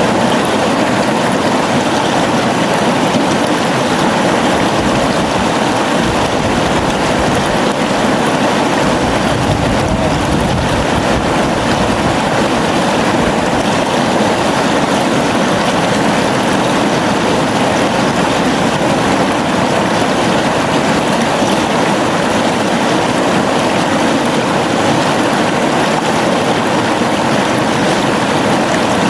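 Flowing river: a steady, unbroken rush of water.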